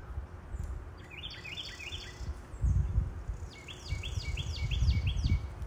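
Two runs of quick, repeated rising bird chirps from a songbird, over a low, gusty rumble of wind on the microphone that swells twice.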